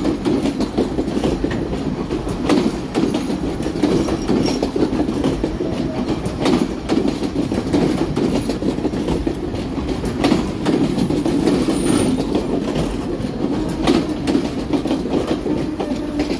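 Passenger train running along the track: a steady rumble with irregular sharp clacks of the wheels over rail joints.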